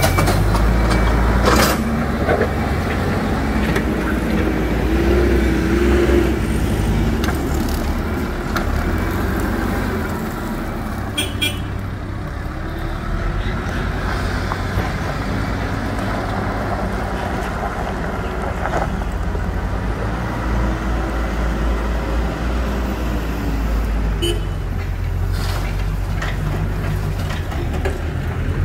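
Diesel engines of Hidromek 102S backhoe loaders running under load, the rumble rising and easing as they work, with a few sharp metallic clanks.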